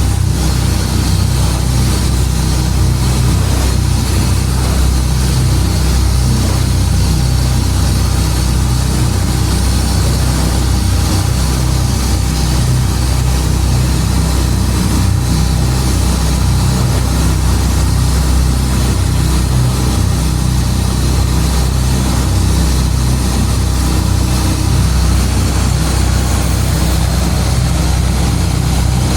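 Longtail boat's engine running at a steady speed under way, with a steady hiss over it.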